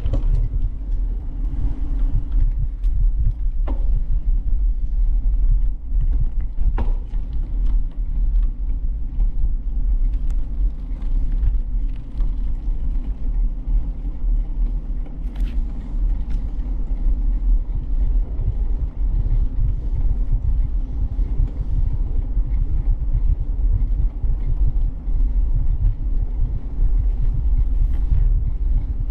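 Steady low rumble of riding noise from a bicycle-mounted camera moving along a path, with a few faint clicks.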